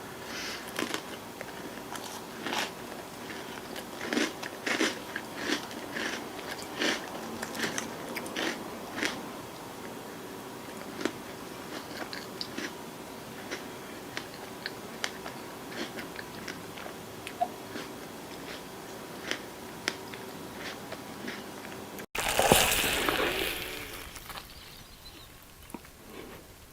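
Close-miked mukbang eating: a run of short, crisp crunches and chewing, several a second at times, over a faint steady hum. About 22 seconds in, the sound cuts abruptly to a louder burst of noise that fades over the next couple of seconds.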